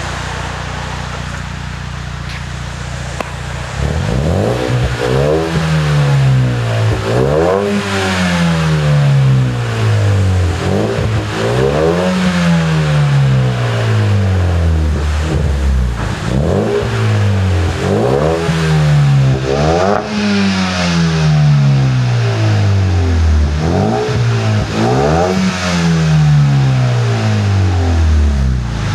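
2015 Hyundai Veloster Turbo's 1.6-litre turbocharged four-cylinder through a CNT Racing cat-back exhaust with a high-flow cat. It idles for a few seconds, then is blipped about eight times, each rev rising sharply and falling back slowly to idle. It has a deeper exhaust note than stock.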